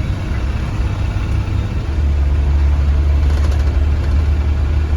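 Blue Bird Vision school bus engine running with a steady low drone that gets louder about two seconds in.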